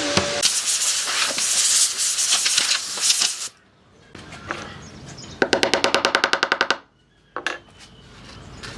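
A power tool working wood runs loud and cuts off about three and a half seconds in. Later comes a rapid, even mechanical rattle of about fourteen clicks a second for about a second and a half, then a couple of short knocks.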